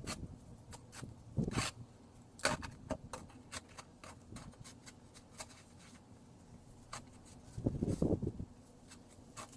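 Snow crunching and scraping under a shovel or boots: scattered short crackles, with a louder run of crunches about eight seconds in.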